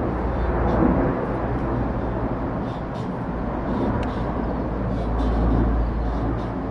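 Aircraft flying overhead: a steady rumble with a strong low bass.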